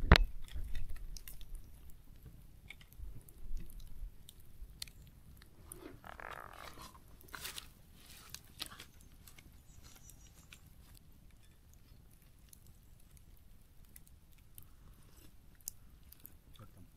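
Newly lit campfire of paper and dry wood crackling, with scattered small pops and snaps and a sharper snap at the very start.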